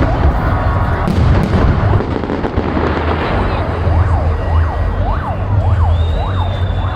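Fireworks bangs in the first second or so. From about four seconds in, an electronic siren wails in rapid up-and-down sweeps, two or three a second, over a steady low rumble.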